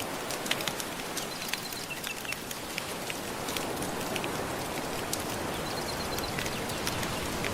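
Wood fire crackling with many sharp pops over a steady wash of gentle ocean waves. A few short, high chirping notes come through, about a second in and again near the end.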